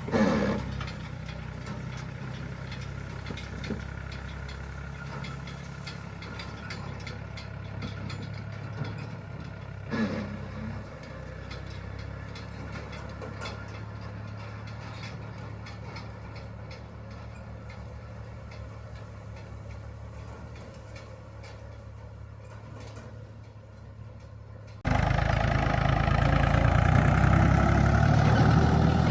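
A vehicle engine running steadily at low revs, with a couple of short knocks; about 25 seconds in the engine sound suddenly becomes much louder.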